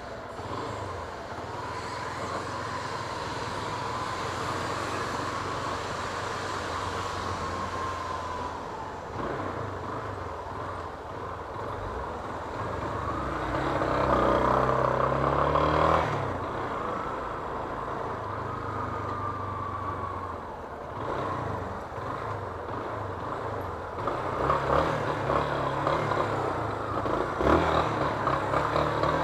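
Yamaha Fazer 250 single-cylinder motorcycle engine running while ridden through town traffic, with wind noise. The engine pitch rises as it accelerates about halfway through, then drops back, and it grows louder near the end.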